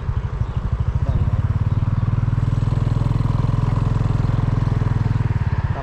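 A small engine running close by: a steady, evenly pulsing low throb that swells about a second in and eases off near the end.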